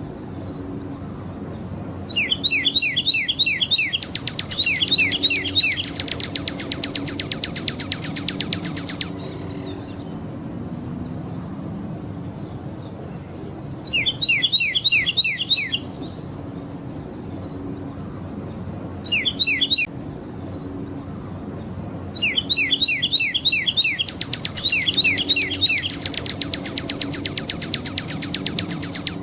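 Northern cardinal singing: about six phrases of loud, clear whistled notes, each sliding down in pitch and repeated several times in quick succession, some phrases running into a rapid trill.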